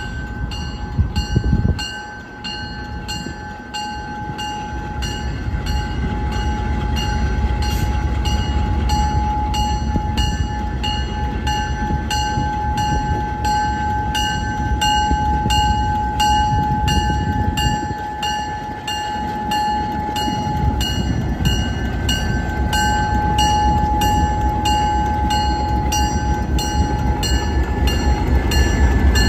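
Passenger train pulling out, its low rumble growing louder over the first few seconds, under a bell ringing steadily at about two strokes a second.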